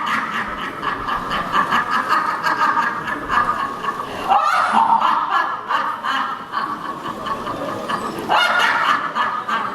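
A long, high-pitched cackling laugh in an exaggerated character voice, pulsing in quick beats with short breaks for breath. This is a puppeteer voicing a villain's laugh.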